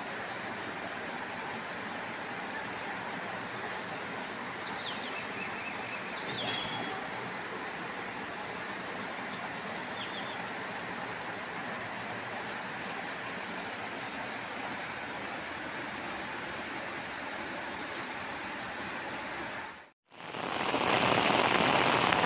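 Heavy rain pouring down in a steady hiss. About twenty seconds in, the sound drops out for a moment and comes back louder and closer: rain splashing onto standing flood water.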